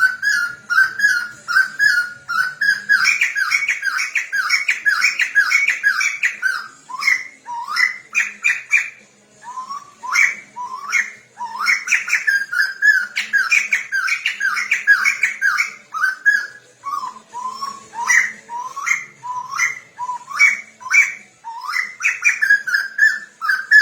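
Songbird singing as a masteran (song-tutor) recording for training caged poksay. It opens with a fast run of repeated notes, several a second. From about seven seconds in come phrases of clear whistles that sweep upward, broken by short pauses.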